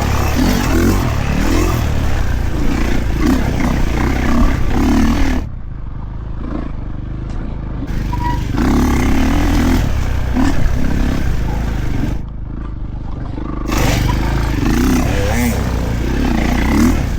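Kawasaki KX450 four-stroke single-cylinder dirt bike engine under way on a trail, pulling hard on the throttle. The throttle closes briefly twice, about five seconds in and again about twelve seconds in, before the engine picks back up.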